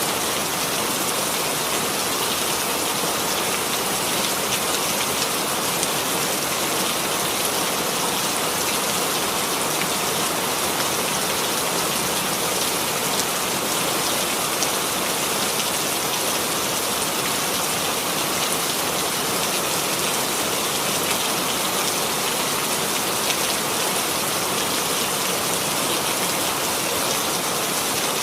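Steady rain: a continuous hiss of rainfall with fine patter of drops, even throughout.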